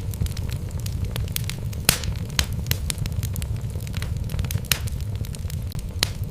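Wood fire burning in a fireplace: a steady low rumble of the flames under irregular sharp crackles and pops from the burning logs.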